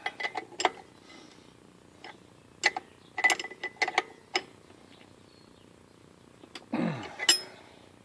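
Metal clicks and clinks of shock-absorber mounting hardware being handled and fitted against a trailer axle, some with a short metallic ring, in a quick cluster a few seconds in and again near the end, where a brief sound slides down in pitch.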